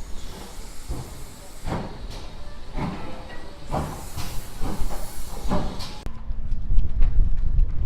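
Steam locomotive chuffing with hissing steam, its exhaust beats coming roughly once a second over a low rumble. About six seconds in it gives way abruptly to a duller, steady low sound.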